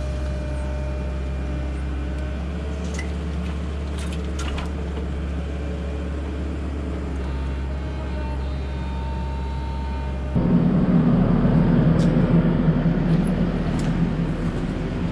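Excavator's diesel engine running steadily, with a few sharp knocks. About ten seconds in the sound turns abruptly louder and rougher.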